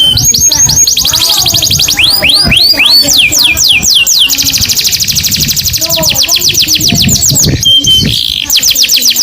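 Canary singing without a break: series of rapidly repeated high notes, some as slower sweeping notes, others as very fast trills, the note type changing every second or two, with a brief steady whistle near the end.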